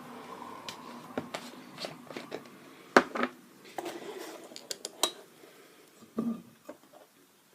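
Clicks, taps and small knocks of art supplies, most likely a paint container, being handled on a work table. The loudest is a sharp click about three seconds in, with a quick run of clicks a couple of seconds later.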